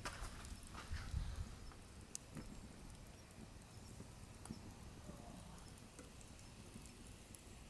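Wood fire burning in a wood stove, crackling with scattered sharp pops over a low rumble of flame; the pops are denser and louder in the first second or so, then thin out to occasional ticks.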